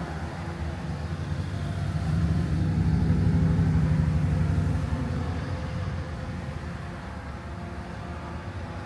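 A vehicle engine's low rumble that swells louder about two seconds in, holds for a couple of seconds, then settles back down.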